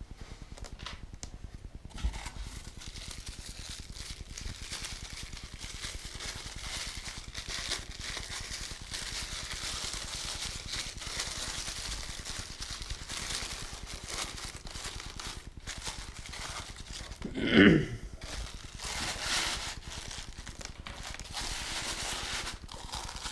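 Rustling and crinkling of packaging as model crane parts are handled and unwrapped, with many small clicks, and one loud, short squeak that slides down in pitch a little past three quarters of the way through.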